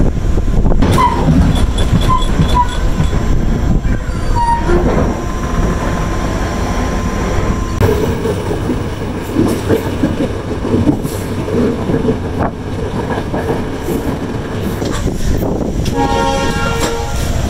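Passenger train running, heard from the carriage: a steady rumble and clatter of wheels on the track, with the horn sounding briefly near the end.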